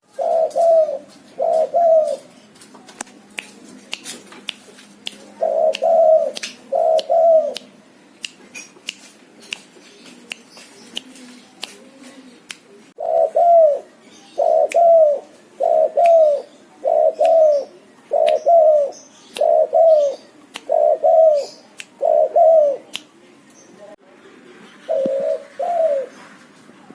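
A bird calling in repeated pairs of short, low, arched notes, a pair about every second and a half, with a pause of several seconds between the first few pairs and a longer steady run. Sharp high ticks are scattered throughout.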